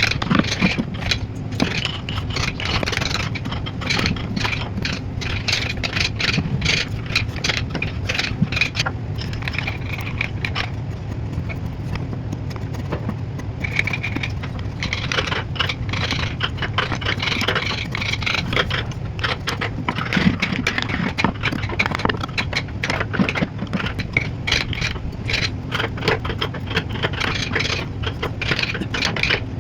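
Carving tools cutting and scraping wood in rapid, irregular strokes, over a steady low hum.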